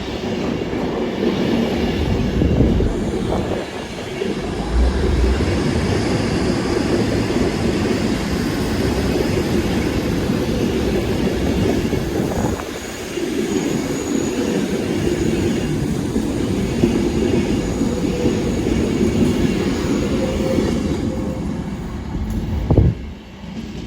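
Trains passing through a station: a Class 390 Pendolino electric train running through at speed while a Class 156 diesel unit pulls away. The train noise is loud and continuous for about twenty seconds, dips briefly about halfway through, and fades near the end.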